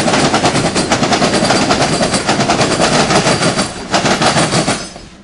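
Diesel freight locomotive passing very close at speed: a loud, fast, rattling clatter that drops away abruptly near the end.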